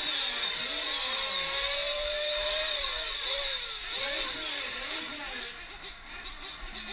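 Several nitro RC race truck engines running on track at once. Their overlapping pitches rise and fall as the drivers work the throttle, over a steady high whine.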